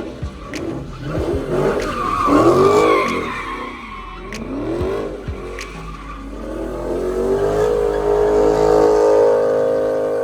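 Car engine revving hard in repeated rises and falls while the tyres squeal and skid in a slide, then held at steady high revs for the last few seconds.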